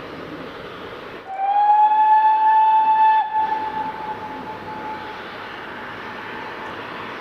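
Steam locomotive whistle: one loud, single-pitched blast of about two seconds, starting a little over a second in and cutting off, its tone hanging on faintly for a moment afterwards. A steady rushing noise runs underneath.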